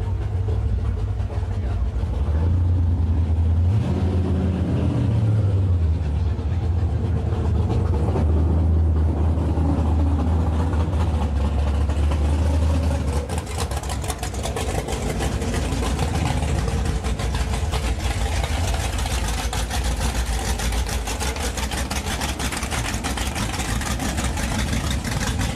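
Drag racing car engines at the strip: a deep, steady engine note with a rev rising in pitch about four seconds in, then a harsher, rapidly pulsing full-throttle engine sound from about halfway.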